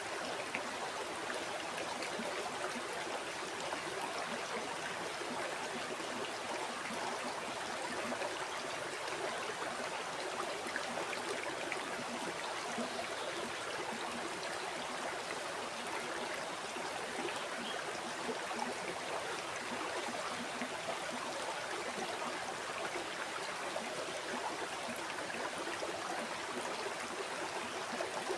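River water flowing and babbling steadily over stones, an even rushing with fine splashing and gurgling detail.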